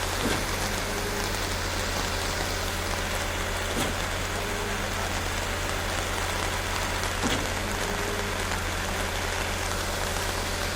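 Steady rain falling, over a low steady hum. There are three faint knocks: one at the start, one about four seconds in, and one about seven seconds in.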